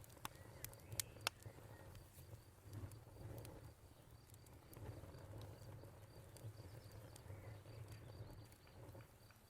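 Wood fire crackling softly: scattered sharp pops and snaps, several close together in the first second or so and fewer after, over a low rumble.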